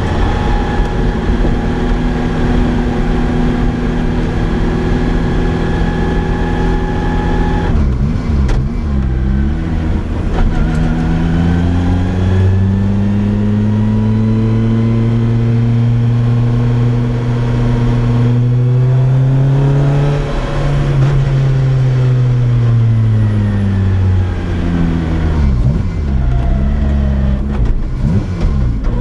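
Naturally aspirated 2004 Lotus Exige Cup's four-cylinder engine and loud exhaust on the move. It holds steady revs for several seconds, then briefly breaks off about eight seconds in. After that it pulls in a long, slowly rising note for about ten seconds and comes off the throttle, its pitch falling away with uneven low revs near the end.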